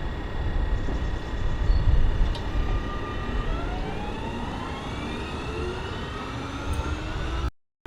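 Electric train accelerating: the whine of its electric drive rises steadily in pitch over a low rumble. The sound cuts off abruptly near the end.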